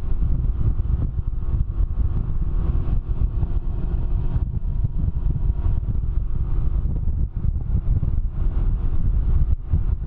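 Wind buffeting the microphone on a moving Can-Am Ryker three-wheeled motorcycle, with the engine running steadily underneath.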